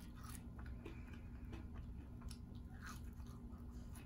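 Faint chewing of french fries, with a few soft scattered mouth clicks, over a low steady hum.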